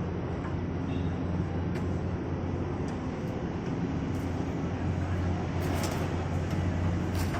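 Heavy engine and machinery running with a steady low hum, with a few sharp metallic knocks in the second half.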